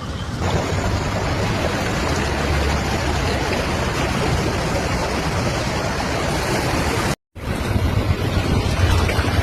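Steady rushing noise of a heavy storm, with wind buffeting the microphone in a low rumble. The sound cuts out for a moment about seven seconds in, then resumes.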